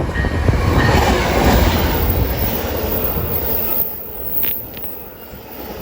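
Metra commuter train passing through the station at speed without stopping, its wheels clattering and rumbling on the rails. The noise drops away sharply about four seconds in as the last car goes by, followed by a couple of brief sharp clicks.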